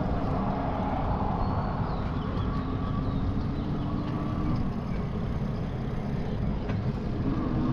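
Steady rumble of wind and road noise while riding a bicycle along a road, with motor vehicles passing.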